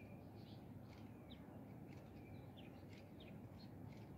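Faint, scattered bird chirps and short calls, some sliding down in pitch, over a steady low background hum.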